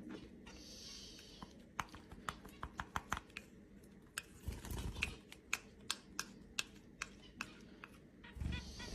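About twenty sharp, irregular taps spread over several seconds, with a dull thump about halfway through.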